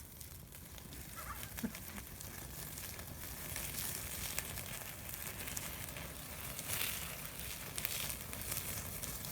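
Meat sizzling on a grill over a wood fire: a steady hiss thick with small crackles and pops, a little louder from about three seconds in.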